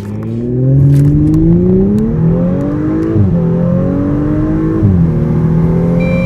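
Audi S5 Coupe's 3.0 TFSI V6 under full-throttle acceleration with an automatic gearbox. The engine note climbs steadily and drops sharply at two upshifts, about three and five seconds in, then climbs again. A steady high-pitched beep starts near the end.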